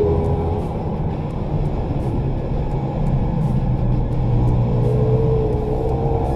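Small pit bike engine running at speed around the track, its pitch dipping and then rising a little toward the end.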